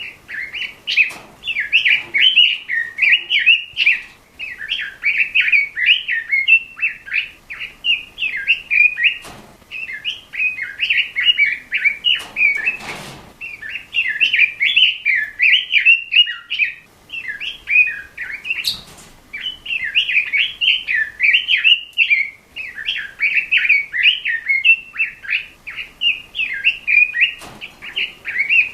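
Pekin robin (red-billed leiothrix) singing a long, rapid warbling song in fast-running phrases broken by brief pauses. A few short knocks sound now and then.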